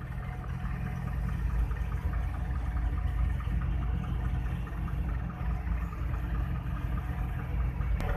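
Steady low rumble of a car's engine and road noise heard inside the cabin while moving slowly in traffic, with a single sharp click near the end.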